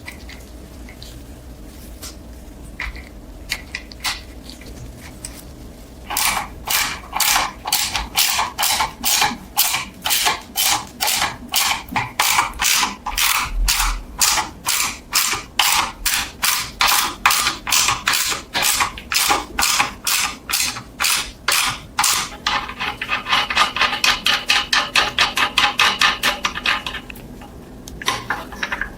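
A hand tool worked on metal in steady back-and-forth strokes, about two to three a second. The strokes quicken to about four a second before stopping.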